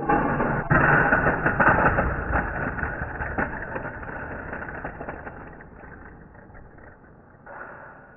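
Vehicle noise: a sudden loud rush with rapid clattering knocks, heaviest in the first three seconds, then fading away over several seconds.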